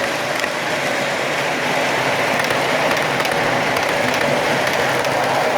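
MTH model subway train running through a station: a steady rolling rush of wheels and motors on the track, with faint scattered clicks.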